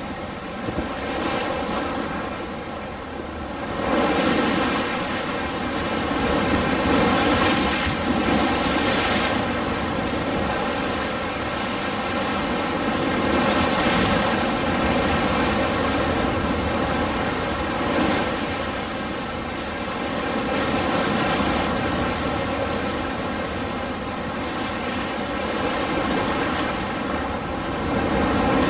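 Ocean surf: waves washing in continuously, the rush swelling and easing every few seconds, with louder surges at about four seconds in and again around seven to nine seconds.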